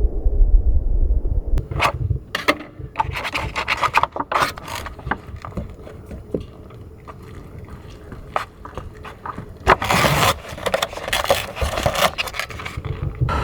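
Irregular scraping and rubbing with scattered clicks and knocks, loudest about ten seconds in, after a low rumble that stops near two seconds in.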